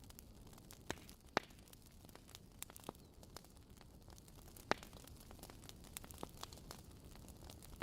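Wood fire crackling: a steady run of small ticks with a few sharper pops, the loudest about a second in and near five seconds, over a low, even rumble.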